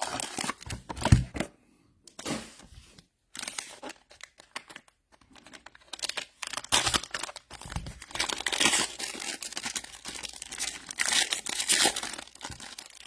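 Trading card pack wrappers being torn open and crinkled, along with cards being handled. The rustling comes in irregular bursts with short pauses.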